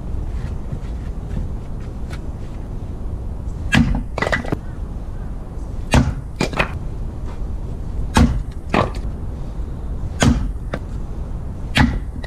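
Adler axe striking and splitting firewood rounds: five heavy blows about two seconds apart, most followed by a lighter knock.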